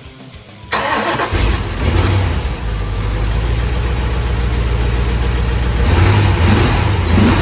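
A Corvette V8, sitting unstarted for ten years, cranks and fires under a second in, then keeps running steadily. The revs rise a little near the end.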